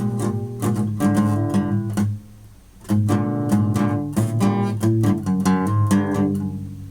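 Guitar being strummed in quick, repeated chords, stopping for a moment about two seconds in before the strumming starts again.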